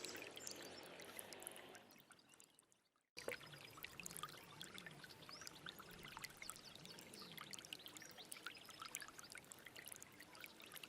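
Stream water trickling and splashing over stones, a steady patter of small drips and splashes. It fades away over the first three seconds, then comes back in abruptly.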